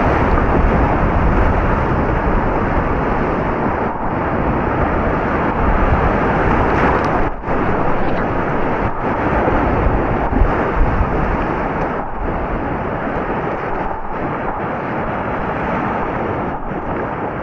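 Rushing whitewater of a class III river rapid: a loud, steady rush of water noise, dipping briefly about seven seconds in.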